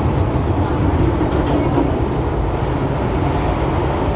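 MTR M-Train running steadily between stations, a loud continuous low rumble of wheels and running gear without a break.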